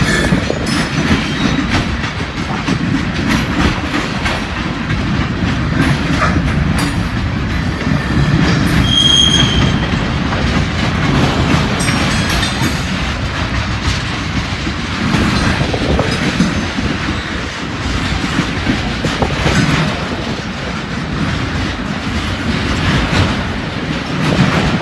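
Freight cars of a long freight train rolling past at close range, a steady rumble with the wheels clicking over rail joints and a brief high wheel squeal about nine seconds in.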